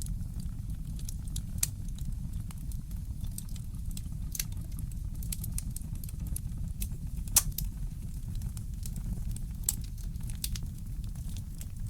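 Fireplace wood fire crackling: irregular sharp pops and snaps over a steady low rumble, the loudest pop about seven seconds in.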